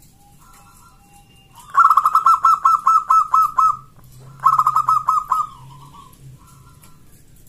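Zebra dove (local perkutut) calling: two loud runs of rapid staccato cooing notes, about five a second. The first lasts about two seconds, and the second, shorter run follows about half a second after it. Softer bird notes sound faintly throughout.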